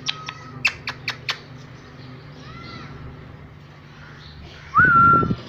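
Pet Indian parrot calling: a quick run of short, sharp squawks at the start, a couple of soft chirps midway, then one loud call near the end that rises and holds steady.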